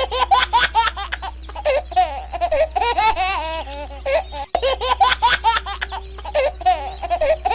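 A high-pitched, cartoon-like laughter sound effect that plays twice in a loop, restarting after a brief cut about halfway through, over a steady low hum.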